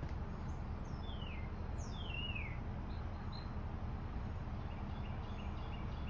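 Songbirds calling: two slurred whistles falling in pitch, about one and two seconds in, then a few short high chirps, over a steady low background rumble.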